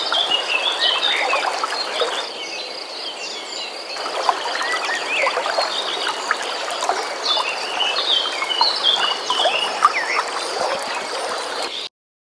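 A dawn-chorus-like mix of many birds singing in short chirps and glides over trickling water, with a steady high trill behind them. The whole sound cuts off suddenly near the end.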